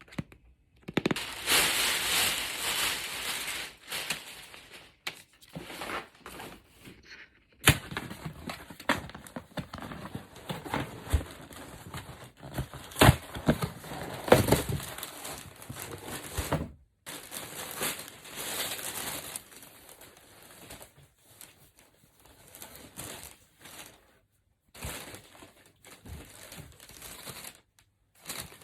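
Plastic packaging crinkling and tearing as it is handled, in irregular bursts with sharp clicks and rustles, busiest in the first half and sparser towards the end.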